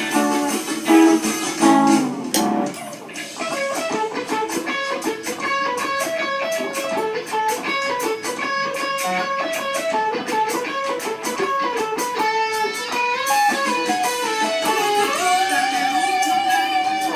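Band music led by an electric guitar playing a quick, stepping melodic line, ending on a long held note with vibrato.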